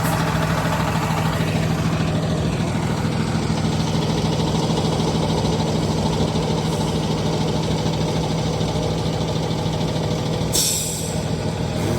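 Box truck's engine running steadily with a low drone, and a brief hiss about ten and a half seconds in.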